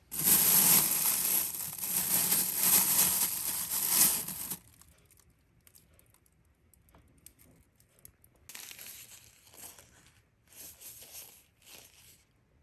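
Crinkling and rustling handling noise, loud for the first four and a half seconds, then a few faint clicks and a second, quieter spell of rustling about eight and a half seconds in.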